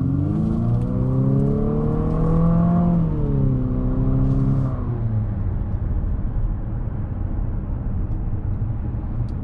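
2021 Infiniti QX50's 2.0-litre VC-Turbo four-cylinder engine in sport mode under hard acceleration, heard from inside the cabin, its note boosted by synthetic engine sound through the speakers. The pitch rises steadily for about three seconds, drops once as the CVT mimics a gear change, then falls away about five seconds in, leaving steady road rumble.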